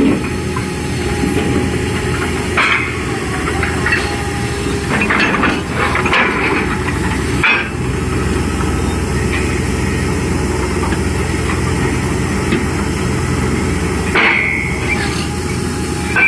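Truck-mounted borewell drilling rig running: a steady engine and compressor drone, with several short bursts of air hiss and clanking.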